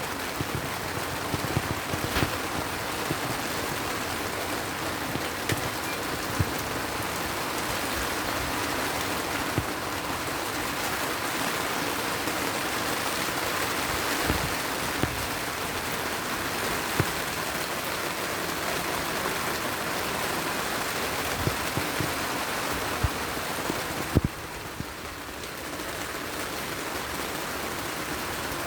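Heavy rain falling steadily, with scattered sharp pops and clicks throughout; the rain briefly eases a little near the end.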